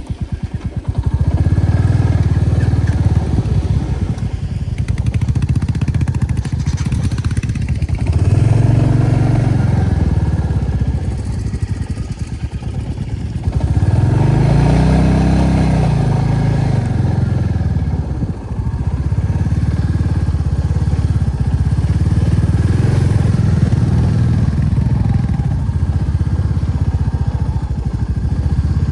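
Motorcycle engine coming up loud at the start and running continuously as the bike rides on. Its note rises and falls as it revs, most clearly about eight and fourteen seconds in.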